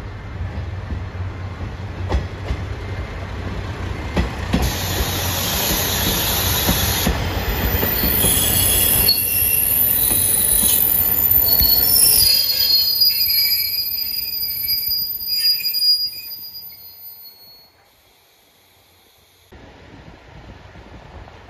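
A diesel train running slowly past at close range, with a low engine and rail rumble, and its wheels squealing in high, shrill tones on the rails from about a third of the way in. The sound falls away sharply near the end.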